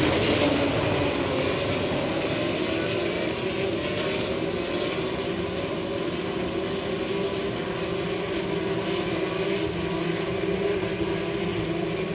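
Steady engine drone with a pitch that slides down just after the start and then holds even.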